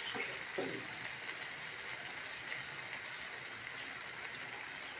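Rice-flour malpua batter frying in shallow hot oil: a steady sizzle with fine crackling. Two brief spatula scrapes in the pan within the first second.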